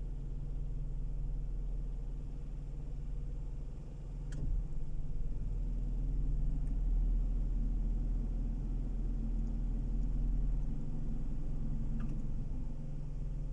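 A car driving, heard from inside the cabin: a steady low rumble of engine and road noise that gets a little louder about four seconds in, with two faint clicks.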